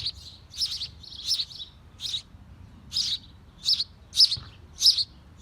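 Birds in a birdhouse chirping: short, high-pitched chirps repeated about twice a second, some coming in quick pairs.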